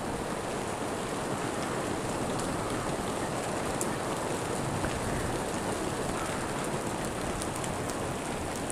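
Steady rain hiss with scattered sharp ticks of single drops.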